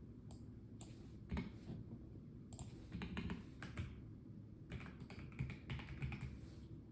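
Typing on a Melgeek Mojo84 mechanical keyboard with a plastic case. The keystrokes come in three short, uneven runs with brief pauses between them.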